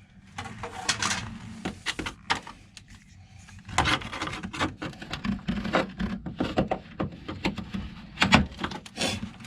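Frozen, brittle sound-deadening mat being scraped and broken off a car's floor pan: irregular cracks, snaps and scrapes, the dry ice having turned it brittle instead of gooey.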